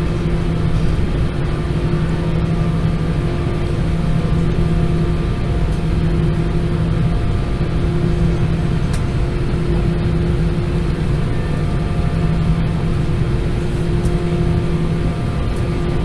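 Steady drone inside the cabin of an Airbus A320-214 with its CFM56 engines at low power. A low rumble carries a few level humming tones that neither rise nor fall.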